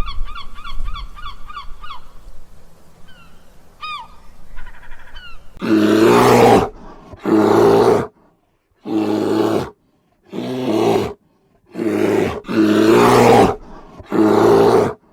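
An animal giving a series of loud, rough calls, each about a second long with short gaps between them, starting about five seconds in. Before that, a fast run of repeated high calls fades out in the first two seconds.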